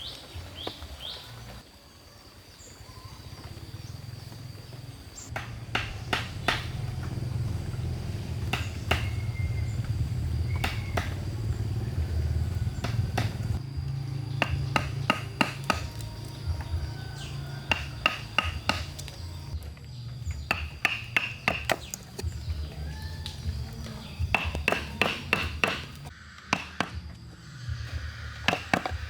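Hammer strikes on wood in quick runs of several blows, each with a short metallic ring, over a steady low rumble.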